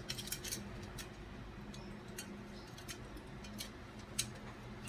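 Light, irregular clicks and taps of small hard computer parts being handled during heatsink and fan servicing, over a faint steady hum.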